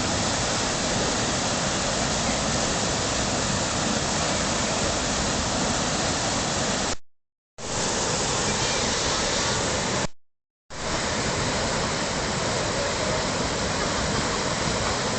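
Whitewater creek rushing steadily, cutting out to total silence twice for about half a second each.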